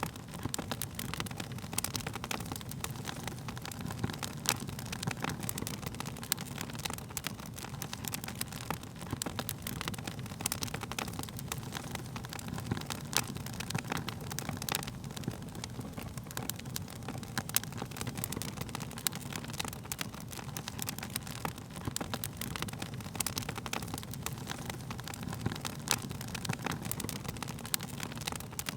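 Wood fire crackling steadily: a low rushing of flames with a constant scatter of sharp pops and snaps from the burning wood.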